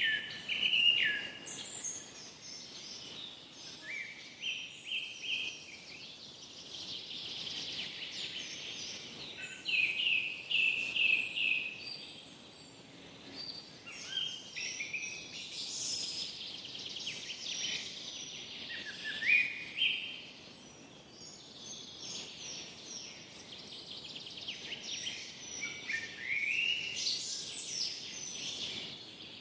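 Forest birdsong: birds singing in short, high-pitched chirping and trilling phrases every few seconds over a faint steady background hiss.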